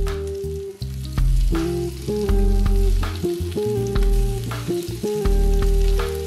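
Egg-dipped gimbap slices (gimbap jeon) sizzling as they fry in oil in a pan. Background music with a pulsing bass line plays over it.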